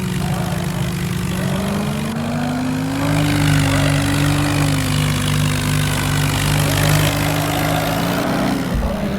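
Car and Sonalika tractor engines running hard under load in a tug-of-war. Their note dips, rises about three seconds in and holds steady, then drops near the end.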